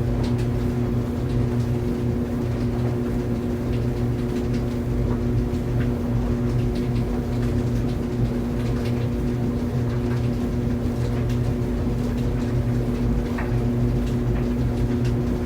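Clothes dryer running: a steady low motor hum and drone, with faint scattered ticks now and then.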